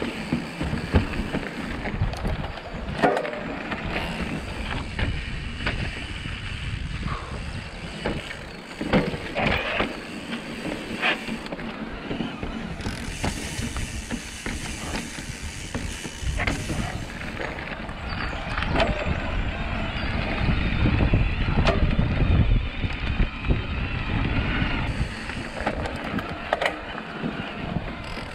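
Mountain bike rolling over a rough forest trail: steady tyre and wind noise, with frequent sharp knocks and rattles from the bike over bumps and a louder rush of wind on the microphone about three-quarters of the way through.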